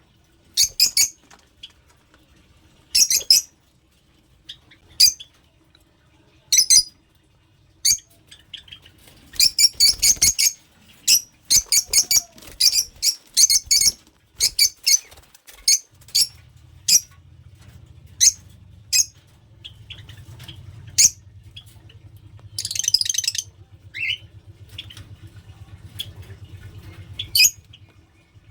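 Pet lovebirds giving short, shrill squawking calls, some single and some in quick runs of several. A faint low hum starts about halfway through.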